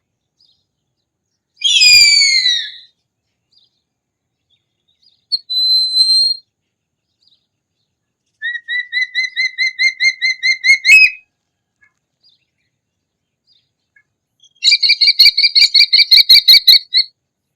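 Hawk calls: a single high, descending scream about two seconds in, a short level whistled note a few seconds later, then two fast runs of repeated piercing notes, each lasting about two and a half seconds.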